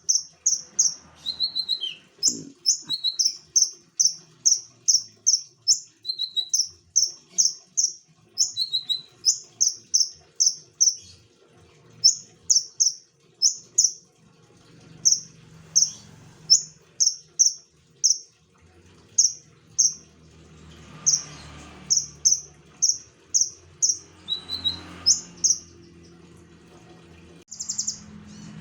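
Konin songbird singing continuously: a rapid series of short, high, sharp chirps repeated about twice a second, broken now and then by a lower slurred note.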